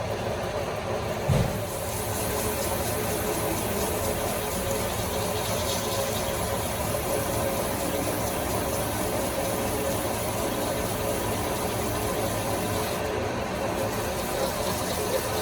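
A machine running with a steady hum, and a single thump about a second and a half in.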